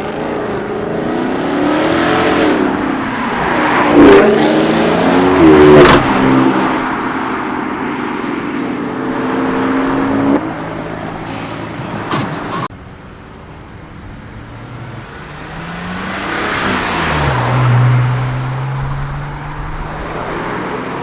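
Cars accelerating hard past, engine pitch rising and falling as each goes by, loudest in the first third. The sound drops abruptly about two-thirds of the way through, and another car passes more quietly, ending on a steady low engine note.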